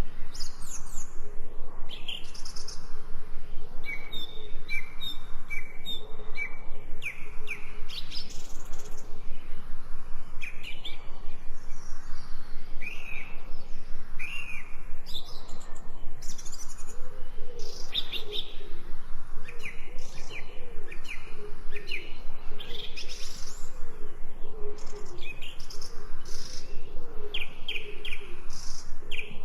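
Several songbirds chirping and singing together, with short repeated notes and quick whistled phrases, over a steady pulsing background.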